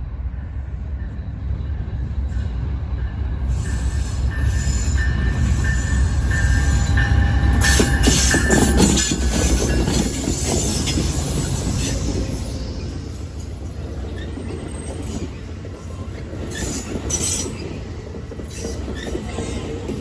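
Train rolling past, a heavy low rumble that builds to its loudest about eight seconds in and then eases off. Thin high-pitched wheel squeal rides over it in the first half.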